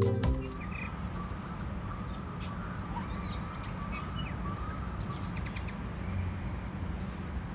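Outdoor ambience: a steady low hum with birds chirping, a few short sweeping chirps coming about two to three and a half seconds in.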